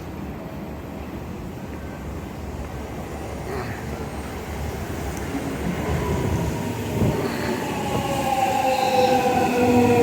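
315 series electric train drawing near and slowing. Its rumble grows louder from about four seconds in, and from about six seconds a whine of several tones from its traction motors falls slowly in pitch.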